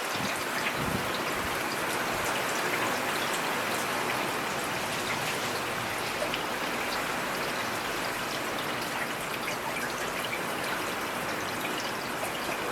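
Steady rain falling, a dense even hiss with many individual drops ticking close by.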